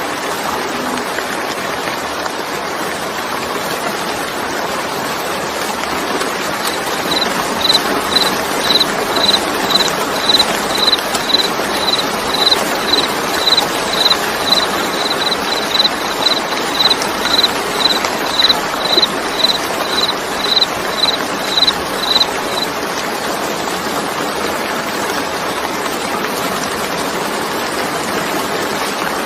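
Steady heavy rain. From about 7 s to 22 s, a short, high-pitched note repeats about twice a second over it, louder than the rain, then stops.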